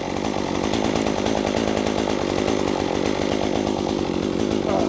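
An engine running steadily at an even speed, with no rise or fall in pitch or load.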